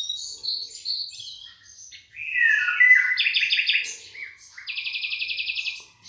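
Birds singing: quick high chirps, then a falling whistled note about two seconds in, followed by rapid, even trills in the second half.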